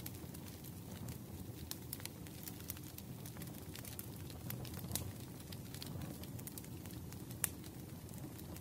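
Wood fire crackling in a fireplace: irregular sharp pops and snaps over a low, steady rumble of burning, with one louder pop near the end.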